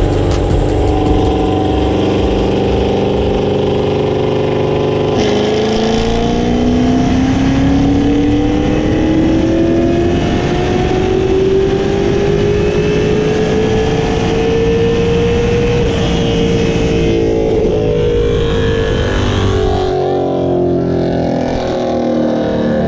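Corvette Z06 V8 running on a chassis dyno. It holds a steady note, then about five seconds in it opens up for a full-throttle pull, its pitch climbing steadily for about ten seconds before easing back and dropping off near the end.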